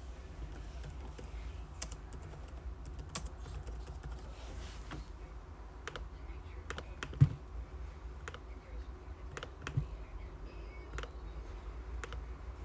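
Computer keyboard typing: scattered, irregular key clicks over a low steady hum, with a louder dull thump about seven seconds in and a smaller one near ten seconds.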